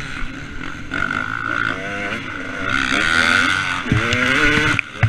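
A two-stroke motocross bike engine, likely a KTM 250 SX, revving hard. Its pitch climbs and drops again and again as the rider works the throttle and gears. A couple of sharp knocks come near the end.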